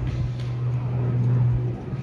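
Steady low rumble of a departing jet airliner's engines. It swells to its loudest about a second and a half in, then eases off.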